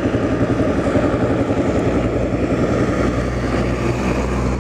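Motor vehicle engine and road noise heard from inside a moving car: a steady hum with a fast, even pulse and a low drone.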